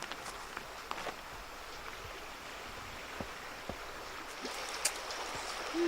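River water running steadily, with a few faint ticks and one sharper click about five seconds in.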